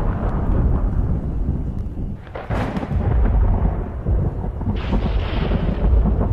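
Thunder rumbling low and continuously, with a sharp crack about two and a half seconds in and another brighter peal about five seconds in.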